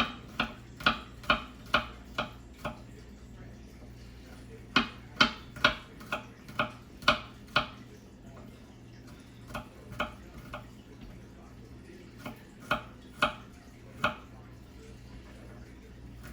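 Knife chopping on a cutting board in runs of sharp knocks, about two a second, with short pauses between runs.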